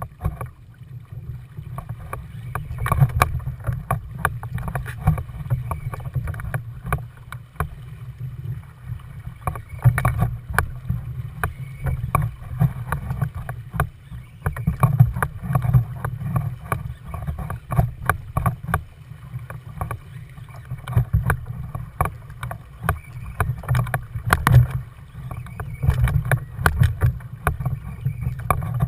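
Water lapping and slapping against a kayak's hull, with a rumble that swells and fades and many irregular knocks.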